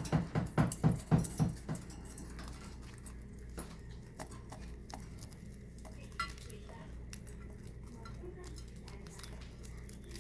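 Cockatiel eating: scattered light clicks and taps, some in quick pairs, of its beak picking at food. In the first second and a half there is a quick run of louder low pulses, about five a second.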